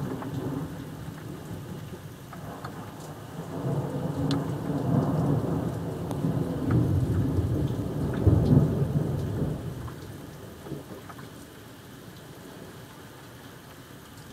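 Thunder rumbling over steady rain, with scattered drips. A short rumble comes at the start. A longer, louder roll of thunder builds a few seconds in, peaks twice, and dies away after about ten seconds, leaving the rain.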